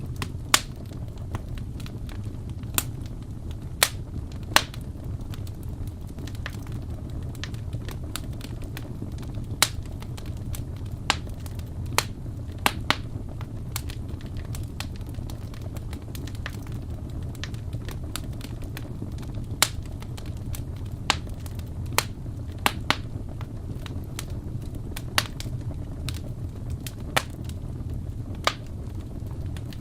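Crackling fireplace: a wood fire burning with a steady low rumble and irregular sharp pops and snaps.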